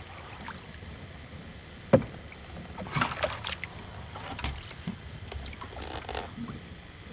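Canoe being paddled: a sharp knock about two seconds in, then runs of short splashes and drips from the paddle strokes.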